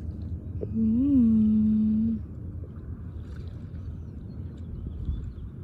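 A person's voice making a brief hummed note, lasting about a second and a half, that swoops up and back down and then holds level, over a steady low rumble.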